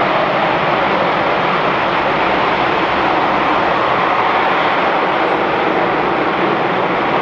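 LE-9 liquid-hydrogen rocket engine running in a static firing test: a loud, steady rushing noise that holds level throughout.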